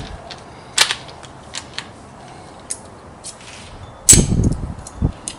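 Metal tools and parts being handled: scattered sharp clicks and clinks, with a louder clattering knock about four seconds in and another knock about a second later.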